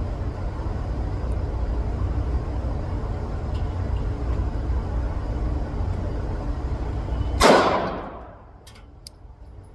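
A steady low rumble, then a single loud pistol shot about seven and a half seconds in, its crack ringing and dying away over about half a second, followed by a few faint clicks.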